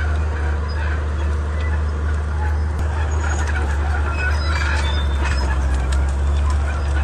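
Komatsu D31P bulldozer's diesel engine running steadily as a low drone, with short high squeaks and chirps scattered over it.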